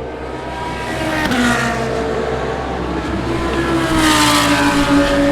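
Race cars passing at speed on the circuit, engines at high revs: one goes by about a second and a half in, and a louder one about four seconds in, each dropping in pitch as it passes.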